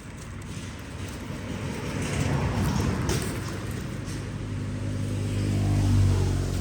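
A motor vehicle's engine running and growing louder as it draws near, with a steady low hum that is loudest near the end.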